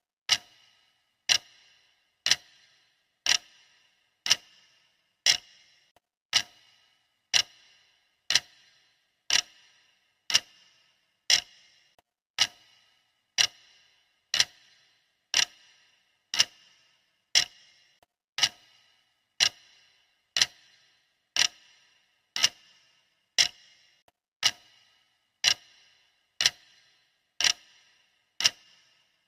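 Clock ticking, one sharp tick about every second with a short ring after each, steady and even: the ticking track of a countdown timer.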